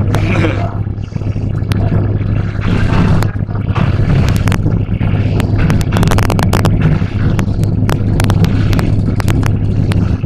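Hybrid electric train running at speed, heard from inside the passenger coach: a steady low hum with running noise, and frequent sharp clicks and rattles that bunch together about six seconds in.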